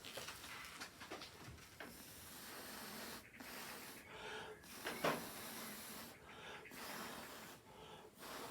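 Breath blown hard through a drinking straw in long hissing puffs, with short breaks between them, pushing wet acrylic paint across a canvas.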